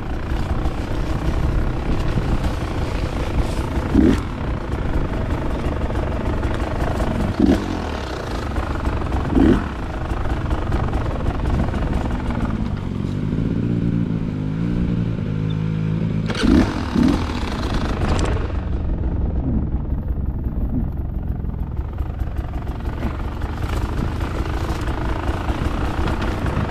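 Dirt bike engine running on a tight woods trail, revving up and down. A few short, sharp knocks stand out, and past the middle the engine settles into a steadier low note for a few seconds before picking up again.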